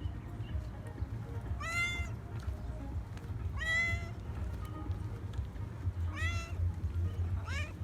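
Stray calico cat meowing four times, each meow rising then falling in pitch, asking for attention. A steady low rumble runs underneath.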